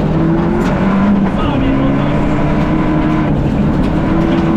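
Fiat Egea rally car's 1.4 T-Jet turbocharged four-cylinder engine heard from inside the cabin, running hard under load on a stage. Its pitch drops about a second and a half in, then holds and slowly climbs again.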